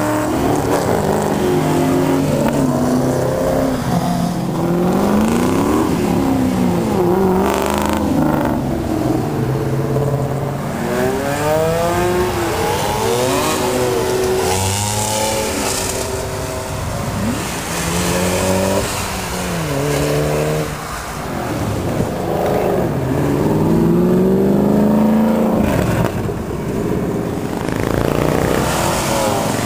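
Cars accelerating hard away one after another, their engines and exhausts rising in pitch through the gears and dropping back at each upshift, several runs in a row.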